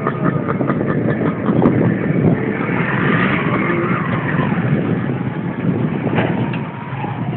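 Mountain bike rolling over a rough dirt trail: a continuous rumble and rattle of tyres and frame, with a wavering whine partway through.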